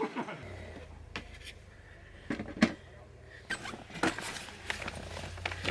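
Scattered light clicks and knocks, a dozen or so at uneven intervals, over a low steady hum that sets in about half a second in.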